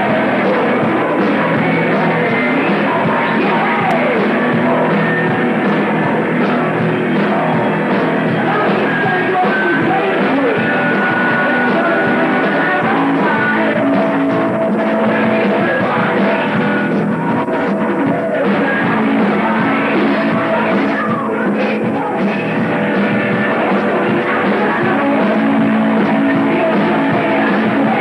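A heavy metal band playing loudly and without a break in rehearsal: electric guitars, bass and drums.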